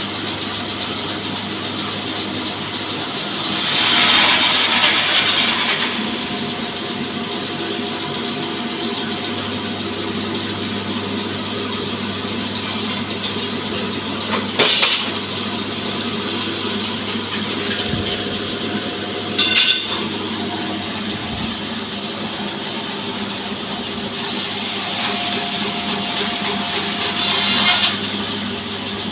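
Petrol engine of a small sawmill running steadily, with louder, harsher spells about four seconds in, briefly twice in the middle, and again near the end.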